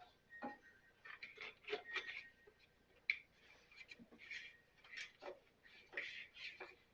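Faint, irregular clicks, ticks and rustles of hands handling mower wiring and test-lead clips.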